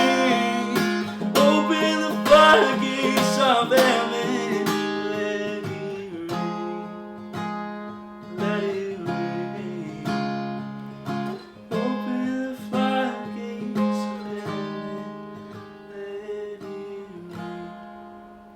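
Acoustic guitar strumming and picking the closing chords of a worship song, each chord ringing out and the playing growing steadily quieter until the last chord fades. A voice holds wordless notes over the first few seconds.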